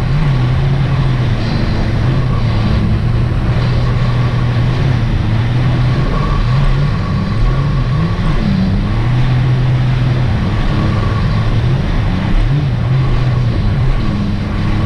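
Supercharged engine of a Sea-Doo RXT-X 300 personal watercraft running under way. Its pitch dips and climbs back several times as the throttle eases off and comes back on, with a faint steady whine above it.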